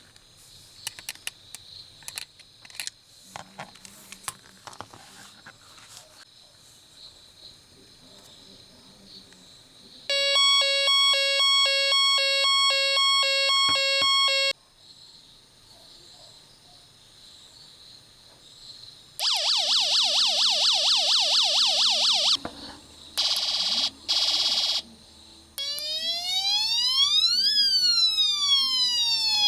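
Electronic toy siren sound module cycling through its sounds after a few light clicks: first a rapid pulsing beep alarm for about four seconds, then a fast yelping siren, a short burst, and near the end a wailing siren that rises and falls.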